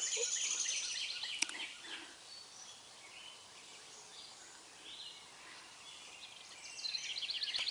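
Songbirds singing: a rapid high trill in the first second or so, and another near the end. A single sharp click about a second and a half in.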